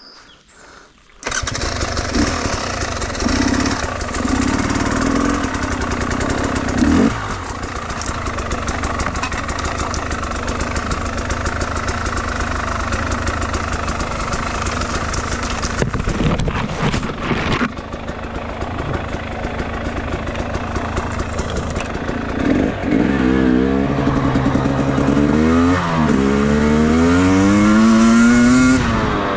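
Enduro motorcycle engine starting about a second in, then running and riding on, with repeated revving that rises and falls in pitch through the gears near the end.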